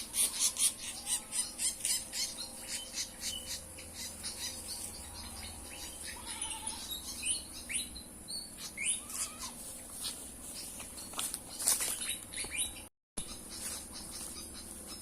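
Pied fantail chirping: quick runs of short, high chirps, fastest at the start and then scattered, over a steady high insect drone.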